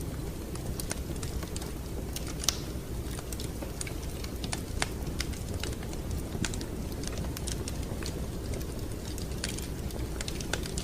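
Wood fire crackling in a fireplace: irregular sharp pops and snaps over a steady low rumble, with one louder pop about two and a half seconds in.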